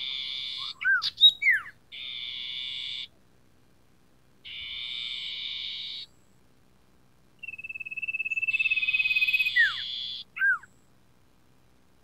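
Common iora calling: four harsh, buzzing churrs of about a second each, broken by quick down-slurred whistled notes. About seven seconds in, a long level whistle runs into the last churr.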